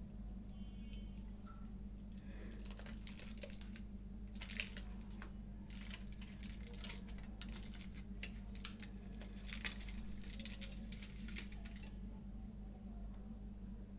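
Chocolate bar wrapper crinkling and crackling close to the microphone in irregular bursts, stopping about twelve seconds in, over a steady low electrical hum.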